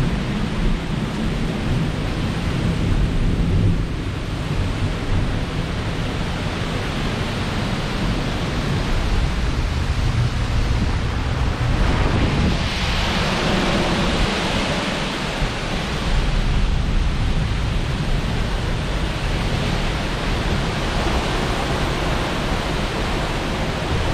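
Storm wind blowing hard, with heavy low rumbling from gusts buffeting the microphone and a stronger hissing rush of wind about halfway through.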